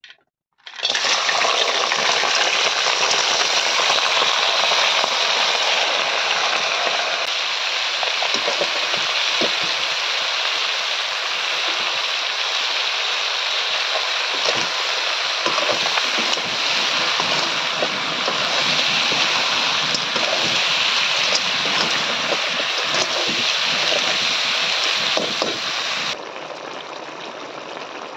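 River snails, potato and onion sizzling loudly in a hot wok, starting suddenly as they are tipped in, with the scrape and click of a spatula stirring them. Near the end the sizzle drops to a quieter bubbling as the dish simmers in its sauce.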